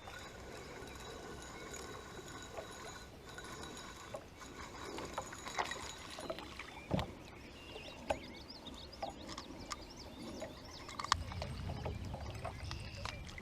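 Kayak on the water: scattered light knocks and clicks against the hull, with a louder thump about seven seconds in, and a low rumble rising near the end.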